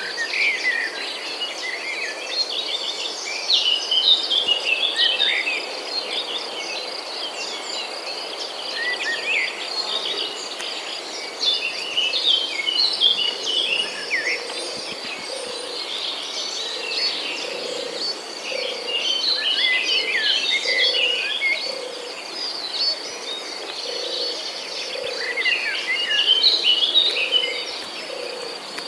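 Several birds singing and chirping in bursts over a steady, high insect trill, with a low call repeated at even spacing from about halfway in.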